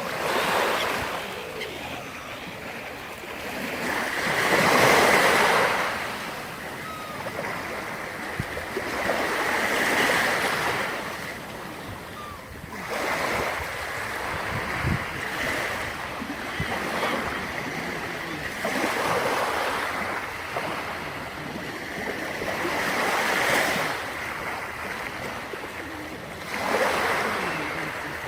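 Sea surf: waves breaking and washing on the shore, the rush swelling and fading every few seconds in a slow, even rhythm.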